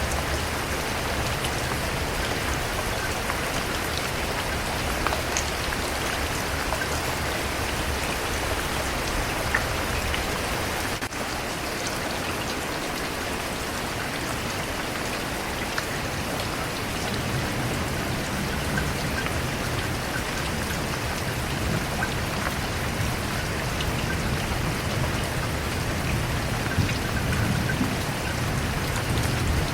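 Steady rain falling on a surface, with scattered individual drop ticks. A low rumble builds under it in the second half.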